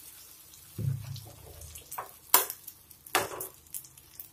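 Semolina-and-bread batter pancakes frying in a little oil in a non-stick pan, with a low sizzle. A dull thump comes about a second in, and a few sharp clicks follow later.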